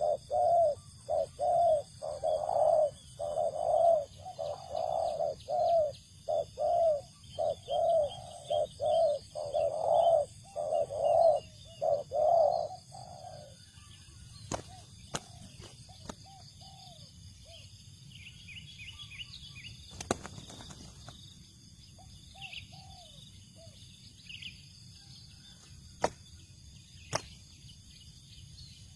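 Spotted dove cooing, a long run of quick, closely repeated low coos that stops about 13 seconds in. After it, faint high chirps of small birds and a few sharp clicks.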